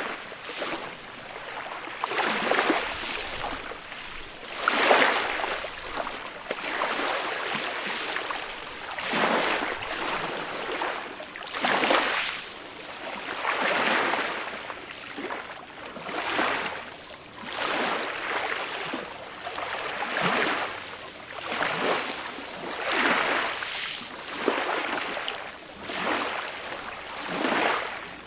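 Small, gentle sea waves breaking and washing up the shore, one soft swell of surf every two to three seconds.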